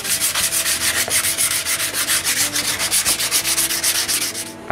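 Sandpaper rubbed by hand along a wooden tabletop edging, in quick, even back-and-forth strokes several times a second, stopping near the end.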